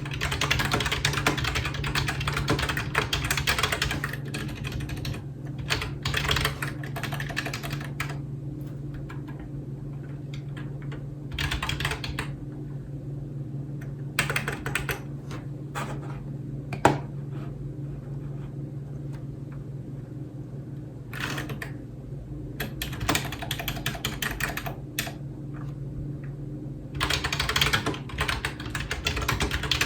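Typing on a computer keyboard: fast runs of key clicks, broken by pauses of a few seconds between bursts, with one sharper single keystroke about halfway through. A steady low hum runs underneath.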